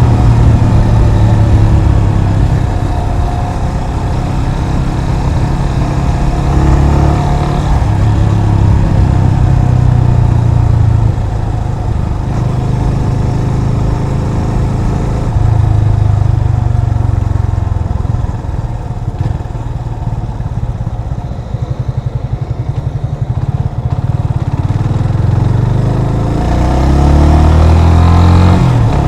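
Yamaha FZ25's single-cylinder engine running under way, its note rising and falling with throttle and gear changes. It drops lower and quieter for a stretch in the middle, then climbs in pitch as the bike accelerates near the end.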